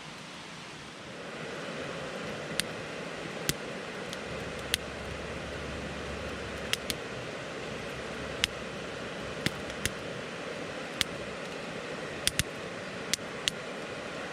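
Wood campfire burning: a steady hiss with sharp crackles and pops, about a dozen, some in quick pairs.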